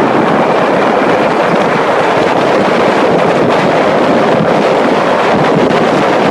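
Loud, steady rushing noise of wind buffeting the microphone, with no engine note or separate knocks standing out.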